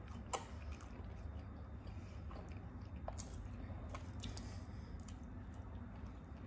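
Two people chewing mouthfuls of pizza fast: faint wet chewing with scattered small mouth clicks and smacks, over a low steady hum.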